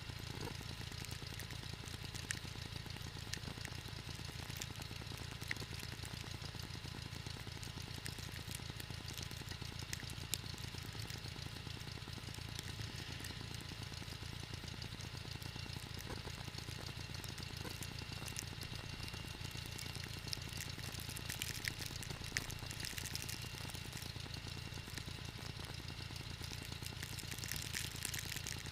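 John Deere 318 garden tractor's air-cooled two-cylinder Onan engine running steadily at an even speed, with a few light clicks here and there.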